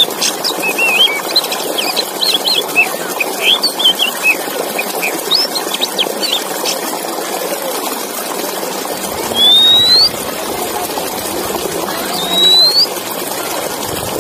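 Male Oriental magpie-robin song used as training audio: a run of quick chirps and twitters, then three clear rising whistles about three seconds apart, over a steady hiss.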